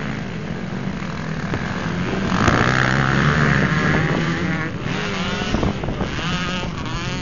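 Motocross motorcycles racing, several engines running at once. The sound swells as bikes pass close, about two to four seconds in, and near the end the revs rise and fall as riders work the throttle.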